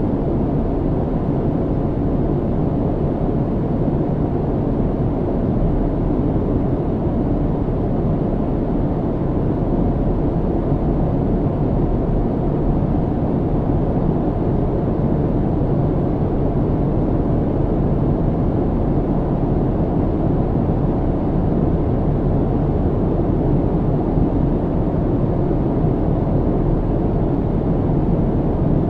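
Steady low cabin rumble of an airliner in flight, even and unchanging, with most of its weight in the low end.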